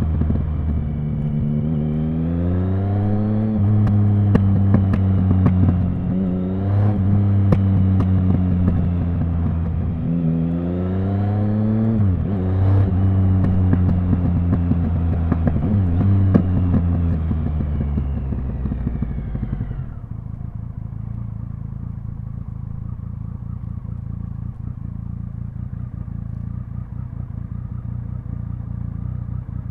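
Triumph Speed Triple 1050's three-cylinder engine and exhaust: the bike pulls away and accelerates through the gears, the pitch climbing in several runs with breaks between. Its pitch then falls as it slows, and from about twenty seconds in it settles to a steady idle.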